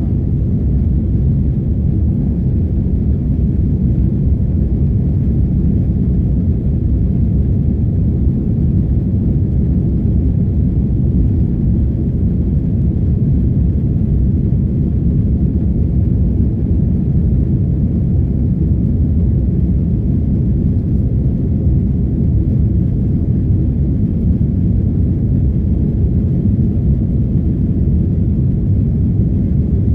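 Airbus A330 airliner heard from inside the passenger cabin: a loud, steady, low noise of the jet engines and airflow, as the aircraft climbs out after takeoff.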